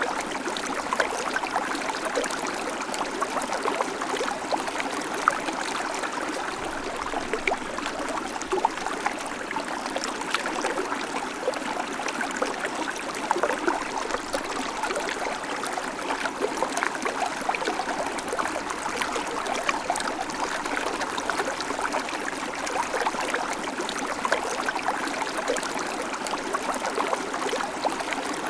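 Shallow creek babbling and trickling over stones: a steady rush of water with many small splashes and gurgles.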